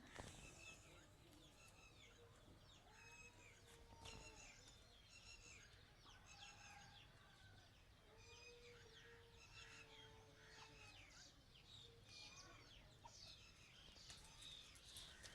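Faint calls of Aseel chickens: many short, high chirps repeating throughout, with a few longer, lower held calls in between.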